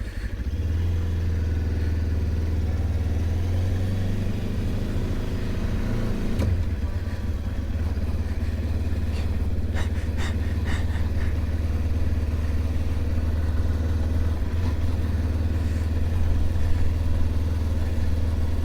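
Motorcycle engine running steadily while ridden, with a shift in the engine note about six seconds in and a few light clicks or rattles around ten seconds in.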